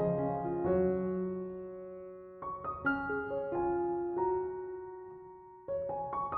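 Background piano music: a slow, gentle melody of sustained notes, struck in small clusters and left to ring out.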